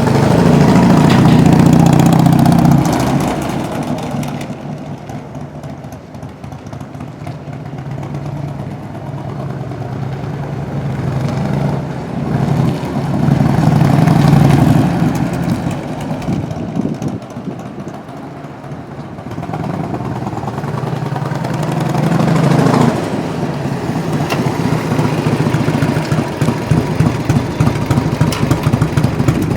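A 1998 Harley-Davidson FXSTS Springer Softail's 1340 cc Evolution V-twin running. It swells loud and fades away three times, then settles into a steady, even idle pulse for the last several seconds.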